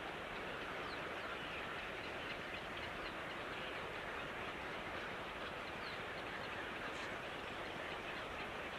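A steady, dense chorus of many birds chirping together, with no pauses.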